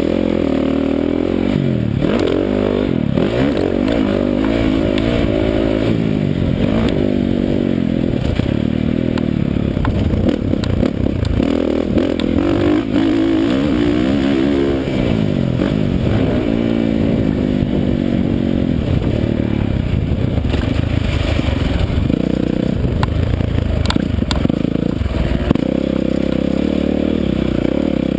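Motocross dirt bike engine revving up and down as it is ridden, its pitch rising and falling over and over with gear changes and throttle.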